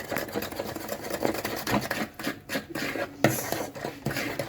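Sugar and eggs being beaten in a mixing bowl: a fast, irregular run of clicks and scrapes, easing briefly about two seconds in.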